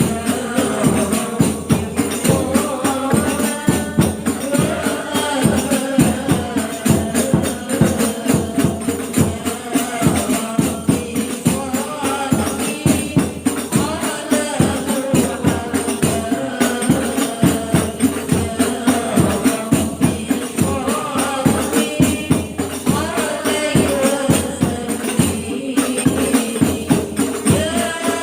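Group of women singing sholawat together to hadroh accompaniment: rebana frame drums and jingled tambourines beating a steady, fast rhythm under the sung melody.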